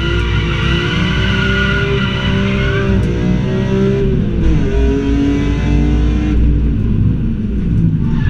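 BMW M3 race car's engine heard from inside the cabin under hard acceleration: revs climb, drop sharply with a gear change about three seconds in, dip again a second or so later as the driver lifts, then fall away near the end before picking up again.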